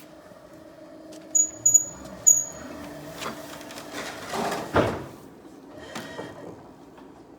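Electric reach truck at work: a steady motor hum, three short high-pitched chirps, a few clicks, and a louder rushing noise about four and a half seconds in.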